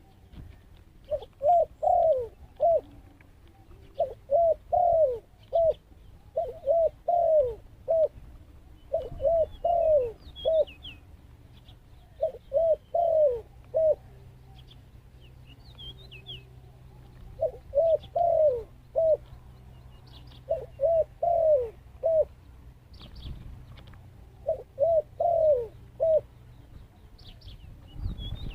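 Zebra dove cooing: phrases of four or five quick staccato coos, each note rising and falling, repeated about every three seconds. Faint high chirps from small birds come through between the phrases.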